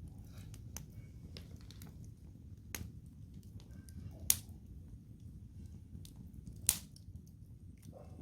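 Wood campfire crackling: scattered small snaps and two sharp pops, one about four seconds in and one near seven seconds, over a low steady rumble.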